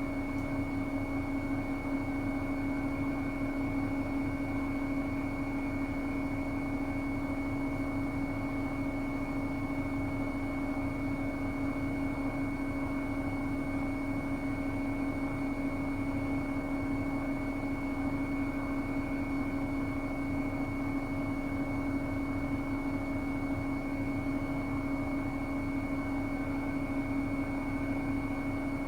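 Bosch Serie 8 WAW32590 front-loading washing machine spinning at a steady high speed, the drum and motor giving a constant whine over a rumble, as in the programme's final spin set to 1600 rpm.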